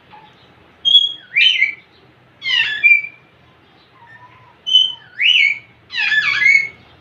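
Indian ringneck parakeet calling: a short steady whistle, a swooping whistle and a harsher chattering call, the whole phrase given twice.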